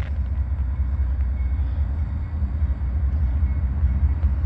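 Freight train rolling past, a steady low rumble with a few faint clicks from the cars on the rails.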